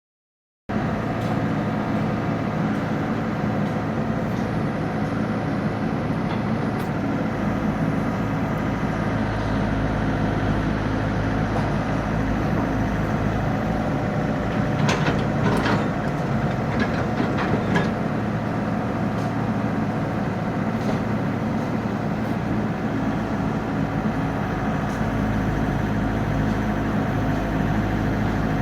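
Komatsu PC78 excavator's diesel engine running steadily under working load, with a few sharp clanks a little past halfway through.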